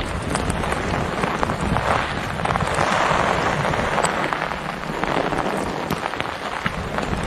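Heavy rain falling steadily: a dense hiss with many sharp individual drop hits, swelling slightly a few seconds in.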